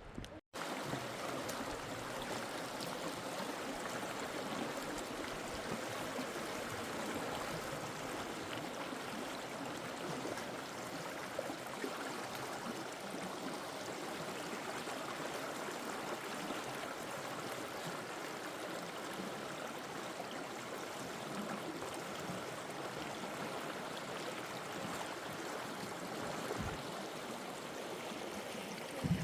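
Steady rushing of water, an even hiss that goes on without a break, with a brief dropout about half a second in.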